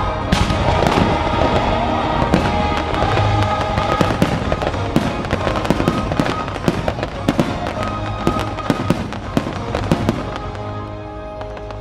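Fireworks bursting in a rapid barrage of sharp bangs and crackles over loud orchestral show music. The bangs thin out and stop near the end, leaving the music alone.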